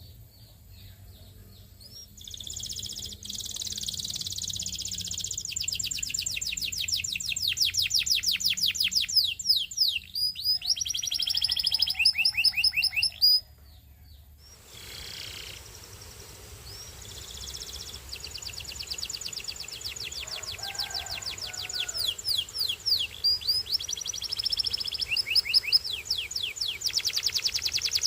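Belgian singing canary singing long strings of fast, high trills and rolling phrases. The song breaks off suddenly about halfway through, then starts up again and runs on.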